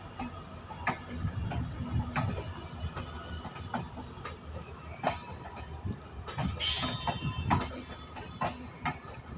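Passenger train coaches rolling slowly past on steel rails: a low rumble with irregular clacks of the wheels over rail joints and a faint steady squeal. About seven seconds in comes one short, sharp high-pitched burst.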